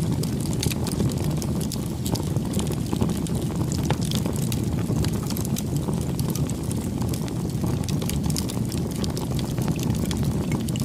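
Wood bonfire burning: a steady low rumble of flames with many small crackles and pops from the burning wood.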